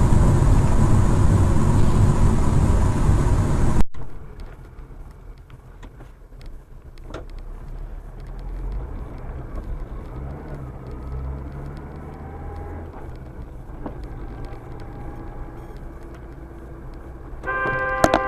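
Car interior road and wind noise, loud for the first few seconds, then cuts to a quieter low engine and road hum. Near the end a car horn blows once for about a second and a half.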